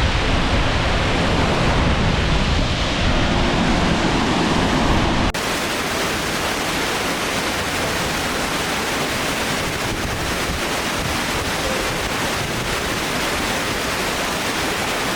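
Waterfall pouring: a loud, steady rush of falling water. About five seconds in it changes abruptly from a deeper, fuller rush to a thinner, brighter hiss.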